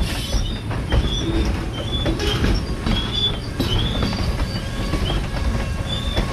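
Freight train rolling by with a steady low rumble. Short high squeals from the wheel flanges on curved track recur every half second or so.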